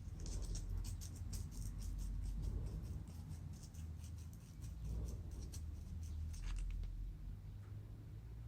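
Rapid light scratching and ticking from small handling work, over a steady low hum; the scratching stops about two-thirds of the way in.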